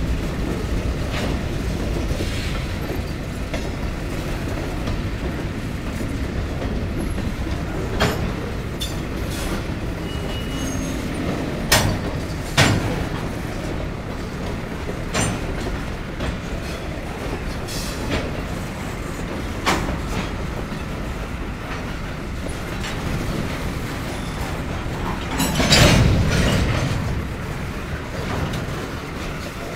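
A string of covered hopper cars rolling slowly past on the rails: a steady low rumble of wheels on track, with sharp clanks every few seconds and one louder, longer clank near the end.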